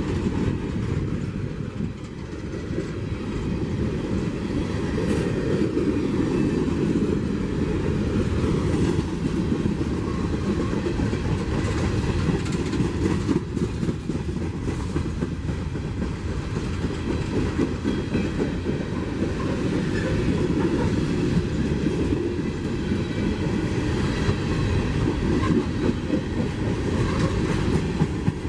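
CSX freight train rolling by, a steady rumble of railcar wheels with clickety-clack over the rail joints.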